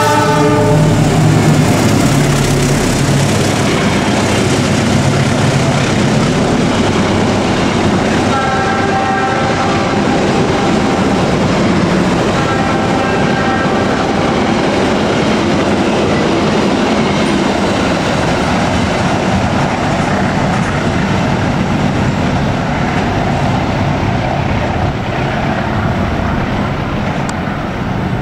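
A passenger train hauled by a diesel locomotive passes close by, its horn sounding right at the start. The coaches roll past with loud, steady wheel-on-rail noise and clatter, and two more horn blasts come about a third and about halfway through.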